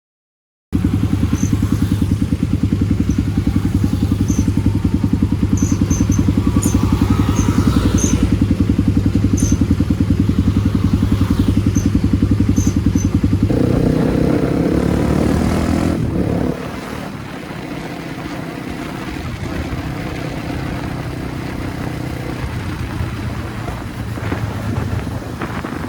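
Kawasaki D-Tracker 250's single-cylinder four-stroke engine running on the move, through a White Brothers aftermarket exhaust. Its note changes about halfway through, and it runs noticeably quieter for the rest.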